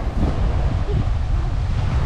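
Strong wind buffeting the microphone, a loud, uneven low rumble, over a windy seaside background.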